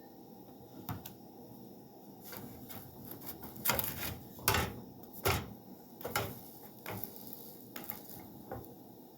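Cookware and utensils being handled: a series of short clinks and knocks at uneven spacing, the loudest three about halfway through.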